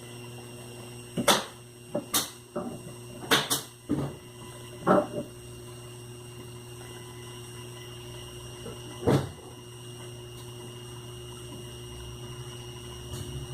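Scattered knocks and clicks of sewing machine motor parts being handled and fitted back together after a bearing replacement, most of them in the first five seconds and one more a few seconds later, over a steady low hum.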